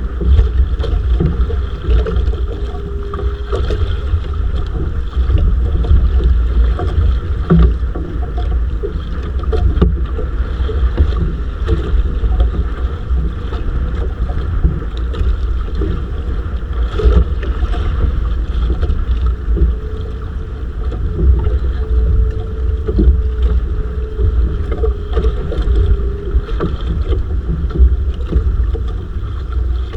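Wind rumbling on the microphone aboard a small fishing boat at sea, steady throughout, with a faint on-and-off hum.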